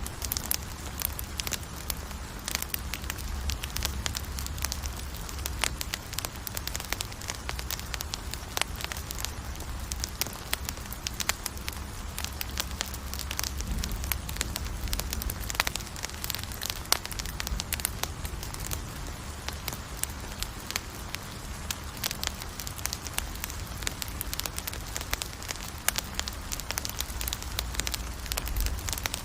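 Campfire burning, with dense, irregular crackling and popping of the wood over a low, steady rumble of flame.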